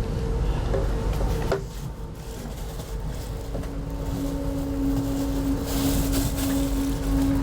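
Noise inside a moving passenger train coach: a steady low rumble from the running gear, with a faint hum. About one and a half seconds in there is a click and the rumble drops a little quieter; a steady hum tone comes in about halfway and the noise builds again near the end.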